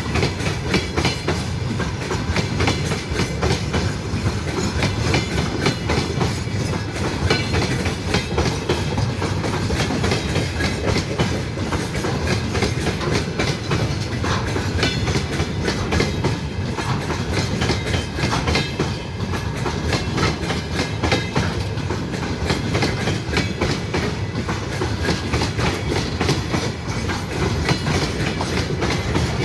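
Train rolling past, its wheels clattering over the rail joints in a steady, unbroken run of clicks over a continuous rumble.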